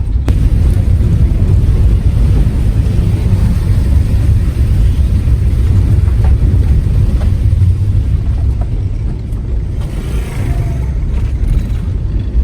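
Suzuki Cultus driving, heard from inside the cabin: a steady, loud low rumble of engine and road noise.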